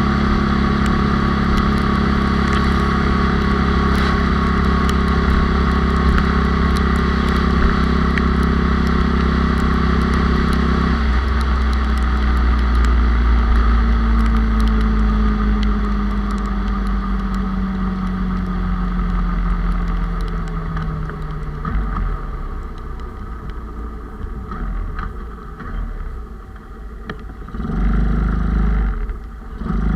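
A bored-out 97cc Honda Cub's single-cylinder four-stroke engine running steadily under way over a low rumble of wind and road. About a third of the way through its pitch starts falling steadily as the bike slows, and for the last third the engine is quieter and uneven before picking up again near the end.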